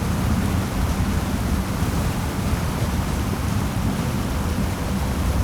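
Waterfall rushing: a steady, dense noise of heavy falling water, strongest in the low end.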